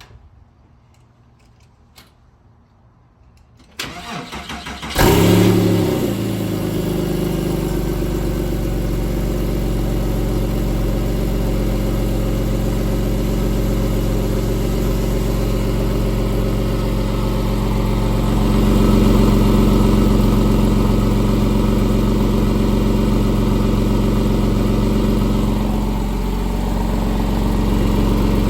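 Cold start of a 2007 Porsche 911 Carrera S's flat-six, which has been sitting for three days. The starter cranks for about a second, the engine catches with a brief flare in revs about five seconds in, then settles into a steady idle that lifts slightly about two-thirds of the way through and eases back near the end.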